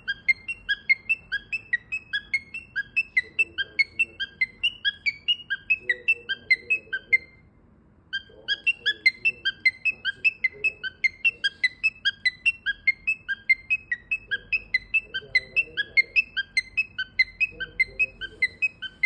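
Small pet parrot chirping rapidly in a steady string of short, high chirps, about five a second, with a break of about a second partway through.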